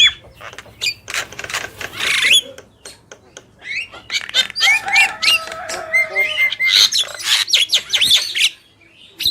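Javan mynas calling in a varied, chattering run of sharp clicks, harsh rasping notes and short whistled upslurs, dropping to a quieter gap near the end.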